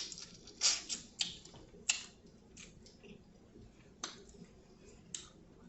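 Eating sounds: scattered short, wet clicks and smacks, about one every second, from someone chewing and eating seafood.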